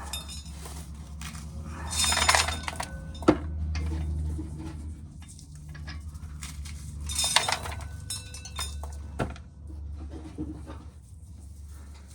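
Corn sheller stripping kernels off an ear of corn: hard kernels rattling and clinking as they fall, with two louder rattling bursts about two and seven seconds in, over a steady low hum.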